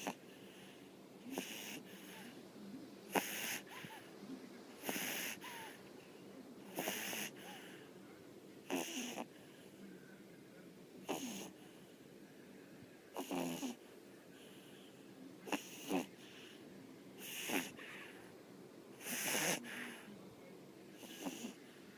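A pug snoring in its sleep, one snore about every two seconds, about eleven in all.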